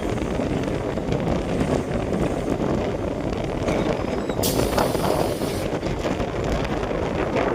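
Train running on the tracks, a steady rumble with wind buffeting the microphone. A sharp hiss lasting about a second comes about four and a half seconds in.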